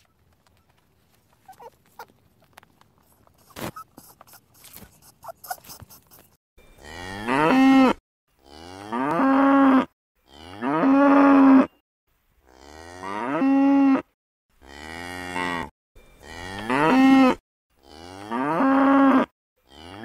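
Cattle mooing: seven long moos one after another, each swelling in loudness, starting after a few seconds of faint clicks and rustles.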